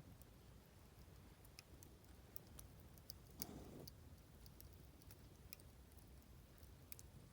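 Faint, irregular crackling and popping of a burning wood campfire, with one slightly longer, louder crackle about three and a half seconds in.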